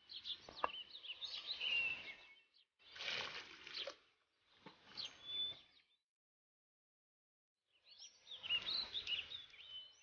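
Small birds chirping and twittering over a faint outdoor background, heard in four short stretches with dead silence between them.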